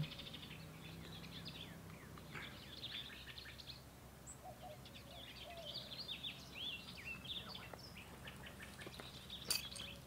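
Small birds chirping faintly: quick high chips and short downward-sliding notes, scattered irregularly, over a faint steady low hum.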